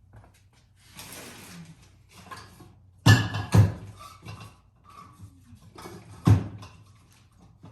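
Handling noise from working on a mass airflow sensor and its housing: a soft rustle about a second in, then three sharp knocks or clicks, two about half a second apart and one more near the end, with light ticks between.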